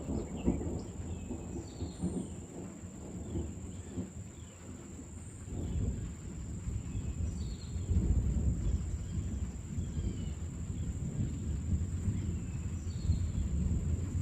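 Deep rolling thunder rumbling low and continuously, swelling louder about six seconds in and staying strong. Faint short high chirps sound over it.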